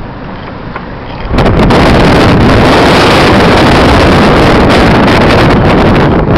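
Steady road noise from a moving car, then about a second in loud wind rushing over the microphone that drowns everything else out.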